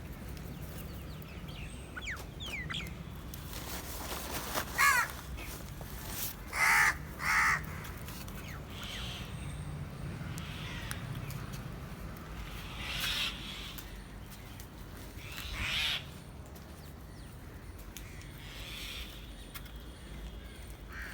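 Crows cawing: scattered single caws, the loudest a pair in quick succession about seven seconds in, with fainter caws spread through the rest.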